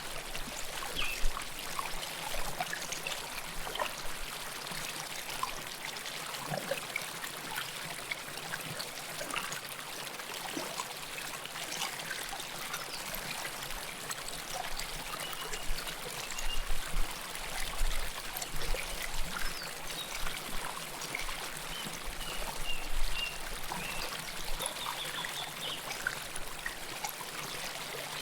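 River water flowing close to the microphone, a steady stream with many small trickles and splashes scattered through it.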